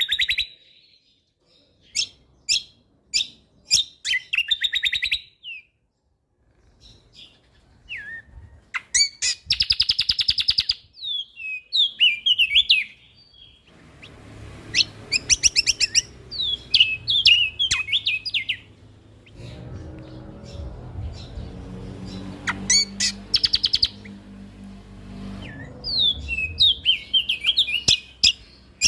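Kecial kombok (cucak kombo) singing in bursts of sharp clicking chips and fast, rattling trills, with short pauses between phrases. A low background hum joins about halfway through and fades near the end.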